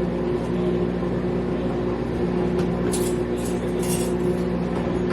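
Steady mechanical hum with a constant pitch, with a few brief rustling clicks about three to four seconds in.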